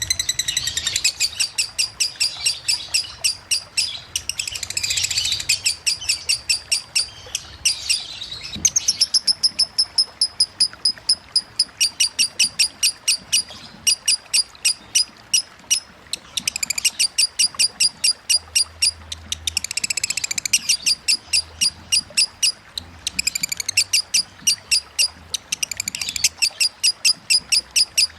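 Lovebird in 'konslet' song: long runs of rapid, sharp high chirps, about five a second, broken by short pauses and a few more jumbled chattering bursts.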